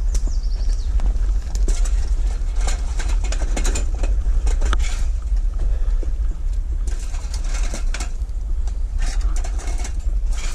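Wind rumbling on the microphone, with bursts of crackling and rustling from footsteps pushing through dry brush and debris.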